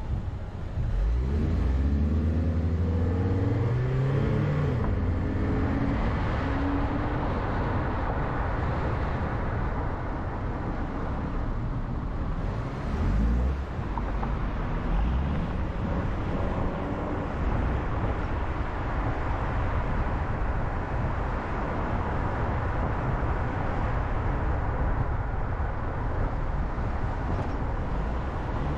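Car driving: its engine note rises as it accelerates about a second in, then settles into steady road and tyre noise, with a second, shorter rise in engine pitch about halfway through.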